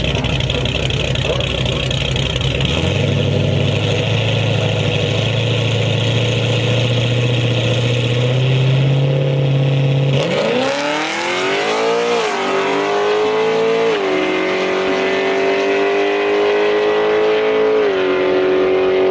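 Camaro SS V8 at a drag-strip launch: held at raised revs on the starting line, then launching about halfway through, its pitch climbing fast and dropping briefly at each upshift, about two, four and eight seconds after the launch.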